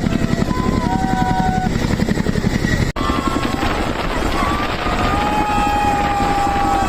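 Helicopter rotor chop from a low pass overhead, a fast steady beat of blade pulses. The sound drops out for an instant about three seconds in.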